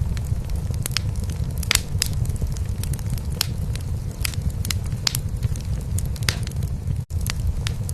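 A cat purring steadily, a dense low pulsing, under a fireplace fire crackling with frequent sharp pops. The sound cuts out for an instant near the end.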